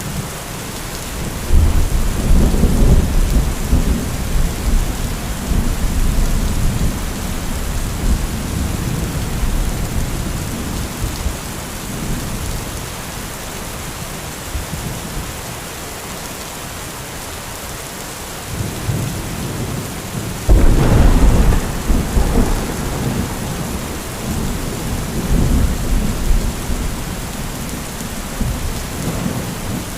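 Thunderstorm: steady heavy rain with rolling thunder. A long low rumble swells up about a second and a half in and fades over ten seconds, and a sharper, louder clap breaks about two-thirds of the way through and rolls off over several seconds.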